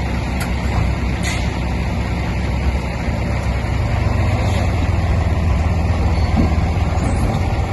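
Heavy diesel engine of earthmoving machinery running steadily, a low rumble that grows somewhat louder in the second half.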